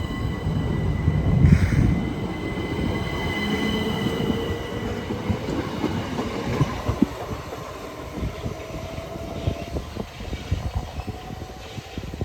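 Electric passenger train pulling away from the station, its motor whine rising in pitch as it picks up speed and fading as it leaves, with a steady high-pitched squeal over it.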